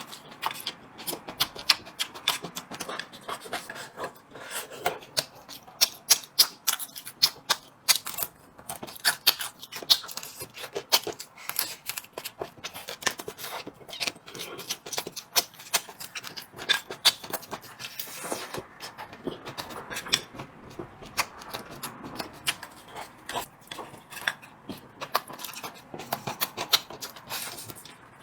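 Close-up eating sounds: chewing and mouth smacking, with many short, sharp, irregular clicks and taps throughout.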